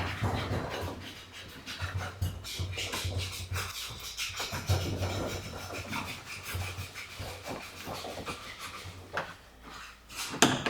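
Hard plastic underbody shield scraping, rubbing and rustling as it is worked loose and handled, with small clicks throughout and a couple of sharper knocks near the end.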